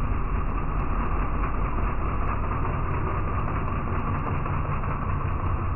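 Steady, muffled vehicle engine rumble, running evenly without any revving.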